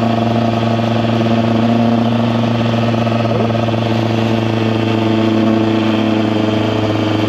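KTM EXC 125's single-cylinder two-stroke engine running at a steady pitch as the bike cruises at constant throttle, with a little wind hiss.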